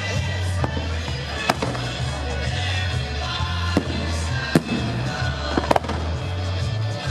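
Fireworks going off: about half a dozen sharp bangs at irregular intervals, the loudest in the middle of the stretch. Music with a steady heavy bass plays under them throughout.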